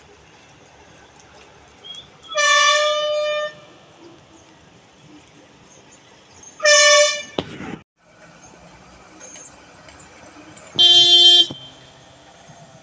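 Road vehicle horns honking three times. The first two short blasts share one pitch, about four seconds apart; near the end comes a lower-pitched blast from another horn.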